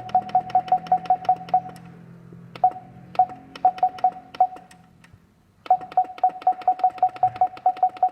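Keypad beeps of a Solution X100-C fingerprint attendance machine: rapid runs of short single-pitch beeps, each with the click of a key press, about six a second, as the keys are pressed over and over. The runs pause briefly a little past the middle, then start again fast.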